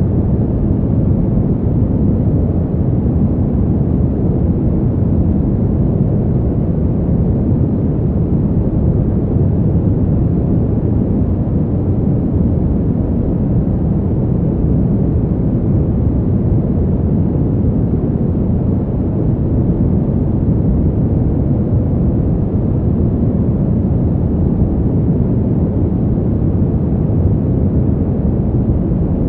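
Steady, deep winter-wind noise for sleep: an even noise, mostly low in pitch, with no gusts, swells or other sounds.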